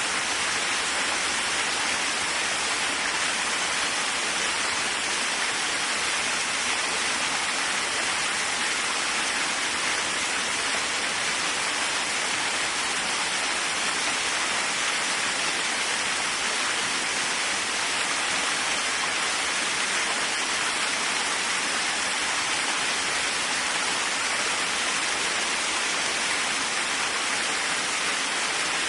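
Waterfall: a steady, unbroken rush of falling water, an even hiss that holds level throughout.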